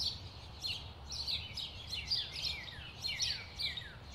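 Birds chirping outdoors: quick, short calls that slide downward in pitch, a few a second, over a faint low background rumble.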